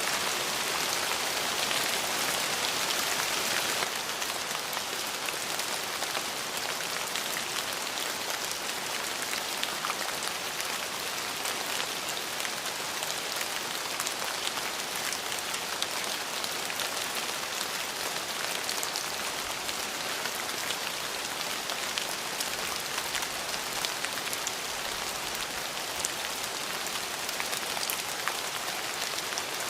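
Steady rain falling, an even hiss with many fine drop ticks. It is slightly louder for the first few seconds, then constant.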